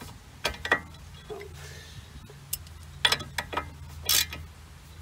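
Scattered sharp metallic clicks and clinks of hand tools and parts being handled during front suspension work, about six in all, over a faint low hum.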